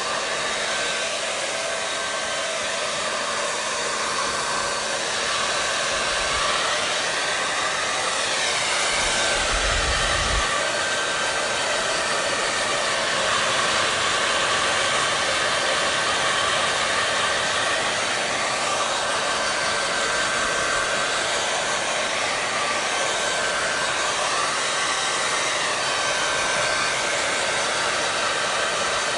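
Hair dryer running steadily, a continuous rush of blown air over the motor's hum. Its tone drifts slowly up and down a couple of times.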